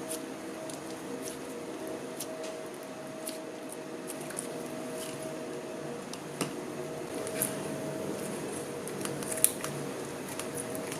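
Hands kneading and squishing no-glue slime: soft sticky clicks and crackles, with one sharper pop about nine seconds in, over a faint steady hum.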